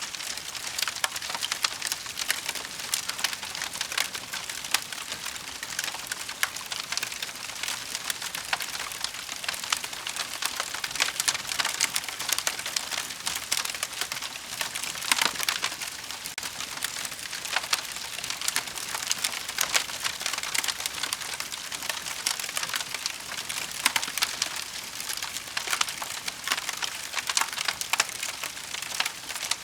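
Wood fire crackling: a steady hiss full of dense, irregular pops and snaps from burning logs.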